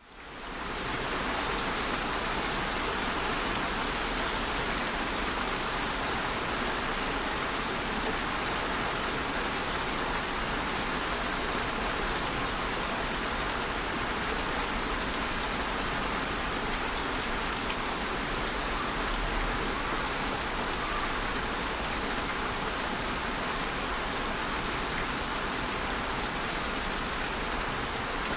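Steady rainfall, a dense even patter of drops on a surface with fine scattered drop ticks, fading in over the first second.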